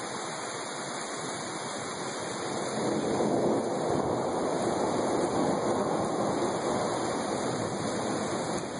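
Heavy rain falling in a steady rush that grows louder about three seconds in.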